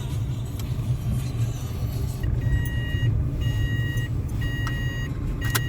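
Car running on the road, heard from inside the cabin as a steady low rumble. From about two seconds in, an electronic beep sounds four times, about once a second.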